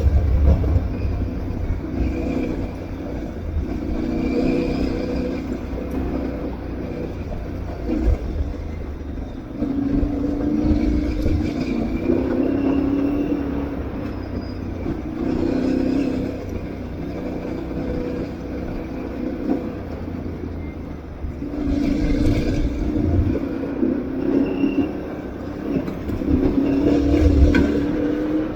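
Aprilia Tuareg 660's parallel-twin engine revving up and down over and over as the motorcycle is ridden off-road, with a low rumble and occasional knocks underneath.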